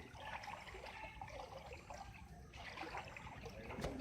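Floodwater trickling and flowing faintly, with a brief click near the end.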